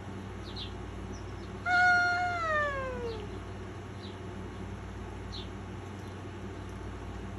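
A cat gives one long meow about two seconds in, holding its pitch and then sliding down. Small birds chirp faintly now and then.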